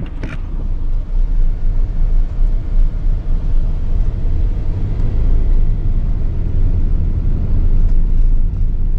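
Steady low rumble with a fluttering, uneven loudness and little above it, fading out just after the end.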